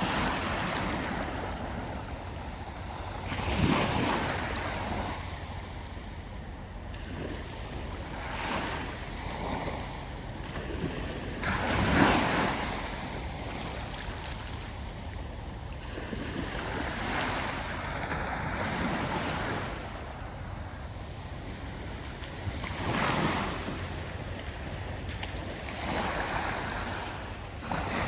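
Sea waves breaking on a shore over a steady hiss of surf, a wave swelling and washing in every few seconds; the loudest breaks come about four and twelve seconds in.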